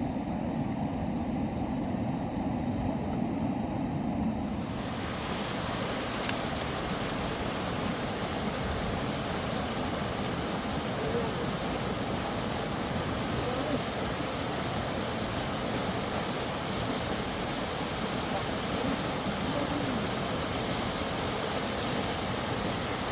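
A dull low rumble that cuts off suddenly about five seconds in, giving way to the steady rush of a mountain river.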